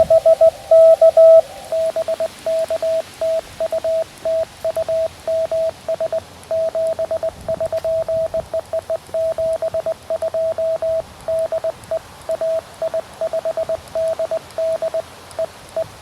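Morse code (CW) tone from a QRP Labs QMX transceiver: one steady pitch keyed on and off in dots and dashes, a louder stretch for the first second and a half, then continuous keying at a slightly lower level.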